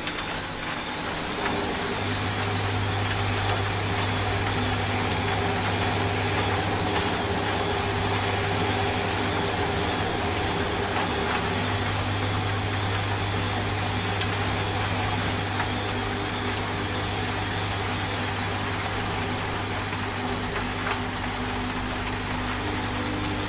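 Washing machine running with a steady motor hum that grows louder about a second and a half in, over the even hiss of rain.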